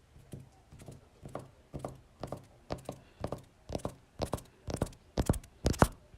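A regular series of short thuds, about two a second, growing steadily louder.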